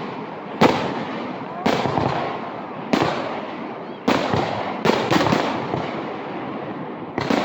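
Fireworks exploding in a string of sharp bangs, each trailing off in a fading crackle, with a quick cluster of three bangs about five seconds in.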